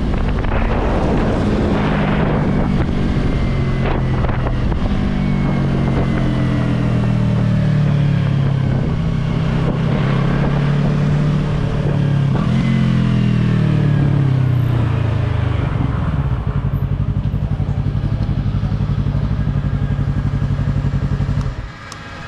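Yamaha YZF-R3 parallel-twin motorcycle engine slowing down, its note falling gradually with one short rise along the way. It then runs evenly at low revs for several seconds and cuts off near the end.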